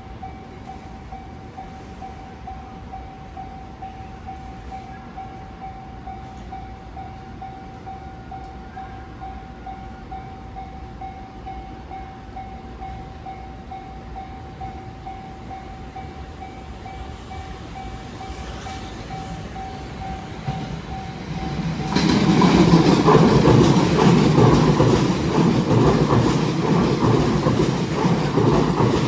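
Level-crossing warning bell ringing steadily while the crossing is closed. After about twenty seconds a JR West 683 series six-car electric train arrives and passes at speed, loud wheel-on-rail running noise that drowns out the bell.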